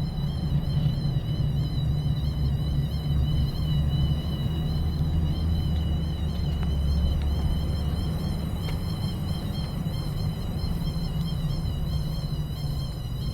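Vehicle on the move with a whirring from the front passenger-side wheel: a steady high whine that wavers slightly over a constant low road rumble.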